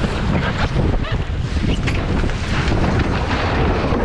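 Heavy wind buffeting the microphone aboard an E Scow sailboat as it tacks, with many quick knocks and rattles from the boat and rigging through it.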